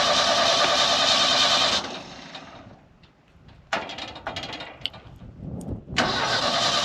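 An engine running steadily dies away about two seconds in, followed by a few scattered knocks and clunks, then the engine is running loudly again about six seconds in.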